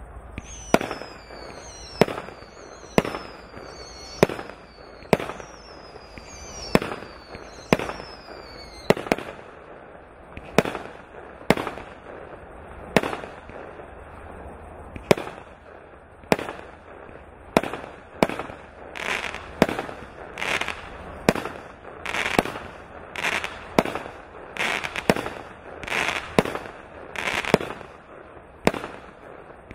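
Klasek C4920S Šašek fireworks cake firing shot after shot, about one a second. In the first third each shot trails a whistle falling in pitch; later shots are each followed by a longer, louder hiss.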